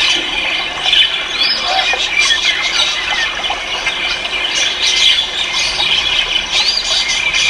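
Many caged cage birds calling at once: a dense, steady chorus of overlapping chirps and calls, with short arched whistles rising and falling through it.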